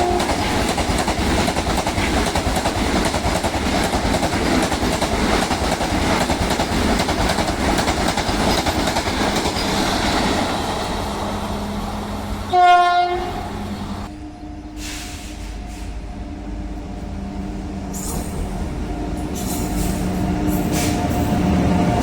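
An express train passing through a station at speed without stopping, its coaches and wheels making a loud continuous rush that fades about twelve seconds in. Just before thirteen seconds a short, loud train horn blast sounds, followed by a quieter stretch with a steady low hum that grows louder near the end.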